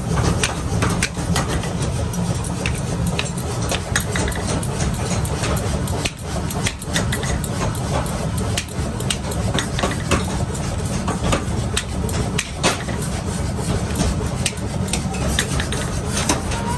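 A workshop machine's motor running steadily, with many irregular sharp metallic knocks and clicks over it, from work on an axe.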